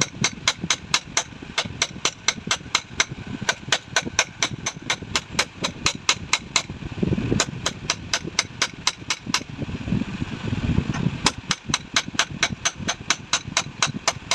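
Rapid, evenly spaced metal taps, about four or five a second, typical of hammering on a motorcycle rear shock absorber during its rebuild. Twice the tapping breaks off briefly and duller low knocks are heard instead.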